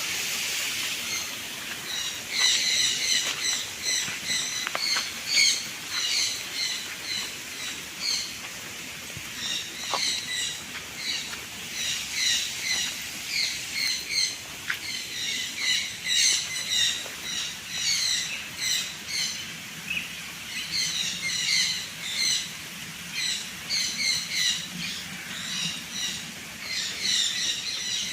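A flock of aviary birds calling: a dense, continuous chorus of short, repeated squawks and chirps from many birds at once.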